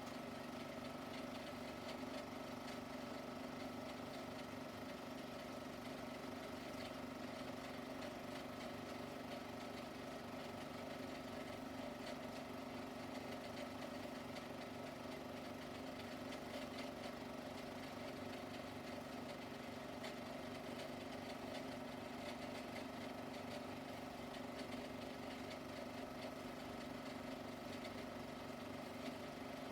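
Faint, steady machine hum with a few constant tones over a light hiss, unchanging throughout.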